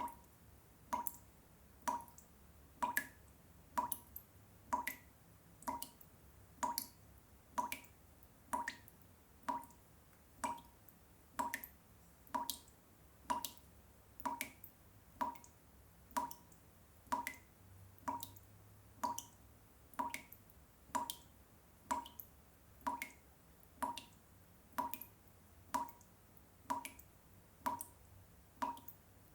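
Water drops dripping one at a time at a steady, even rhythm, about one drop a second, each a short, sharp plop.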